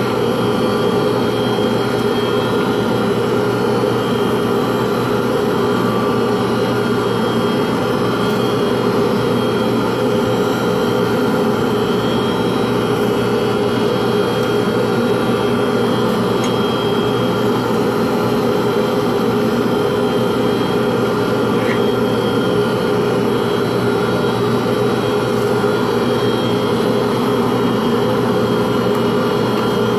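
A workshop power tool's motor running steadily at constant speed, with a steady hum.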